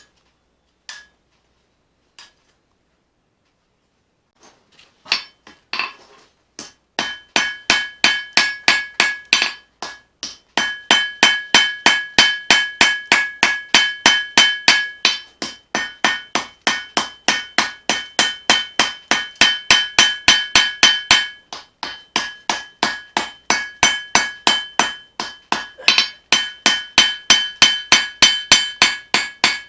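Forging hammer striking a leaf-spring steel knife blade on an anvil, about three blows a second, each with a bright metallic ring. A few scattered taps come first, then steady hammering begins about six seconds in, with brief pauses.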